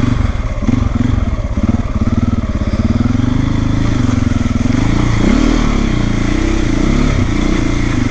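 Single-cylinder trail motorcycle engine running under varying throttle, its pitch rising and falling as the revs change, most clearly a little over halfway through.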